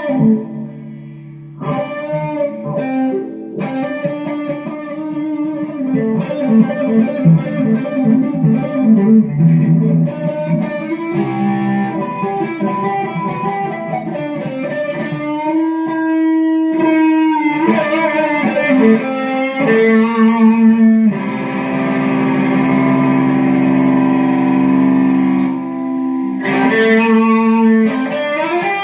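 Electric guitar playing an instrumental passage through effects, with notes sliding in pitch and a long held chord near the end, over a gospel backing track.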